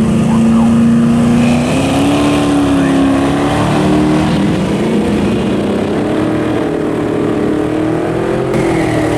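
Car engine running loudly at fairly low revs, its pitch climbing in a few steps and levelling off, then dipping slightly near the end.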